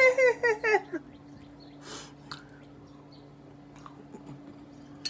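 A woman's voice trails off in the first second. After that comes quiet mouth-eating: soft chewing, a breath-like puff about two seconds in and a few small clicks, over a faint steady low hum.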